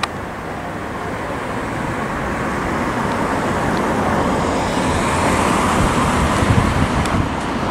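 Thameslink Class 700 electric multiple unit approaching on curving track, its wheel-on-rail noise growing steadily louder, with a few low knocks from the wheels near the end.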